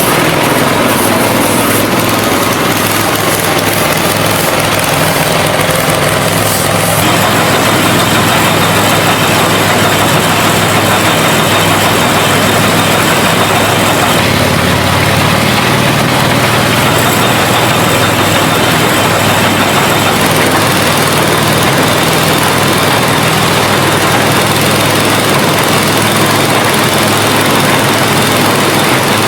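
An engine running steadily, with its sound changing abruptly twice, about a third and half of the way through.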